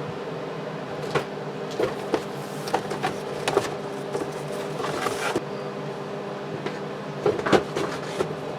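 Irregular knocks and clunks of an air cleaner assembly being handled and set onto the engine, about nine in all, over a steady low hum.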